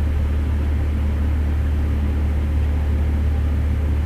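A steady low mechanical drone with an even hiss over it, unchanging in pitch and level.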